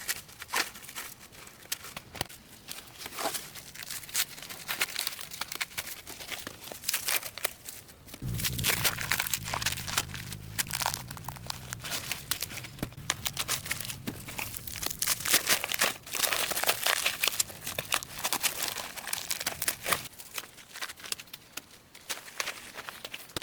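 Crinkling and rustling handling noise, full of small sharp snaps and crackles. A low steady rumble joins in about a third of the way through and drops away a few seconds before the end.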